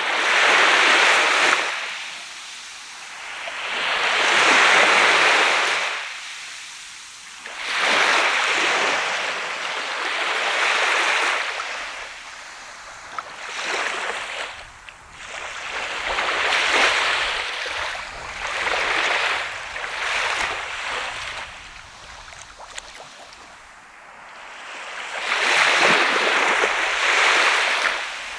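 Sea of Japan surf breaking and washing up the shore, a wave of hiss swelling and fading every three to five seconds.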